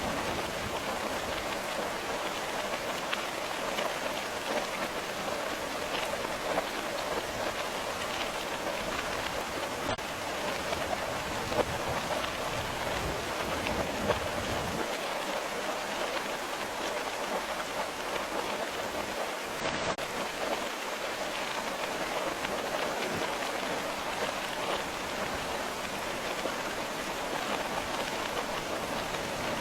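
Steady rain falling and pattering on a surface, an even dense hiss with scattered brief louder drops.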